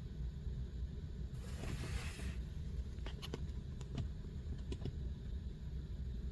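Steady low hum with a brief rustle about a second and a half in, followed by a handful of light clicks and taps.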